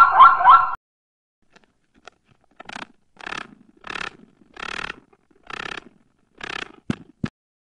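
Zebra calling, a string of rising, barking notes repeated several times a second, cut off abruptly within the first second. Then a series of about eight short raspy scratching sounds, roughly one every two-thirds of a second.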